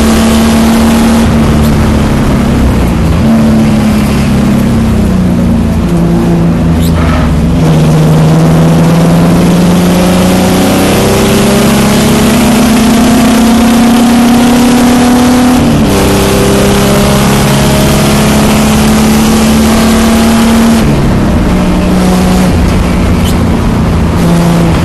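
Race-prepared 2003 Infiniti G35's 3.5-litre V6 heard from inside the cabin, pulling hard at full throttle with its pitch climbing steadily and dropping sharply three times, over constant wind and road noise.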